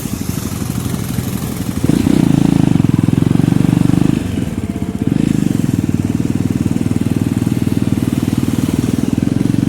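Motorcycle engine running under way with a low, rapid exhaust beat. It gets louder about two seconds in, eases off briefly near the middle, then picks up again.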